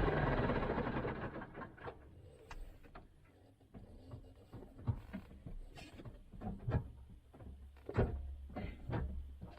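Tractor engine sound dying away over the first second or so, followed by scattered, irregular clicks and snaps.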